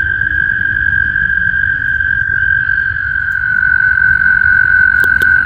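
Chorus of frogs in a vernal pond, their trills blending into one steady, unbroken high-pitched drone, with a low rumble underneath and two brief clicks near the end. A spring breeding chorus of calling males.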